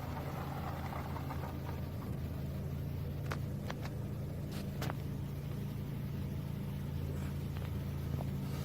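Car engine running steadily at low speed, heard from inside the cabin as a low hum, with a few faint clicks in the middle.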